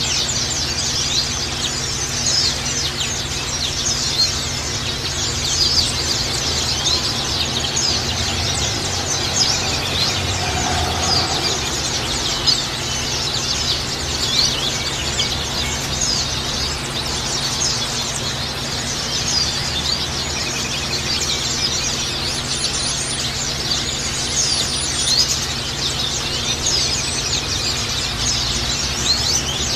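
White-eyes (pleci) chattering and singing together: a dense, unbroken stream of rapid, overlapping high chirps, the lure song played to coax a caged white-eye into singing.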